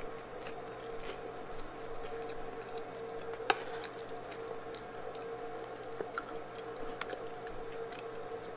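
Soft chewing and wet mouth sounds of a person eating chana masala with fried bread, with a few faint clicks and one sharper click about three and a half seconds in, over a faint steady hum.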